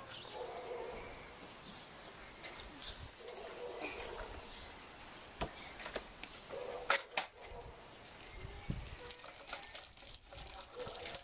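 A small songbird singing a long run of high, repeated chirping notes, about three a second, with a few sharp knocks about halfway through.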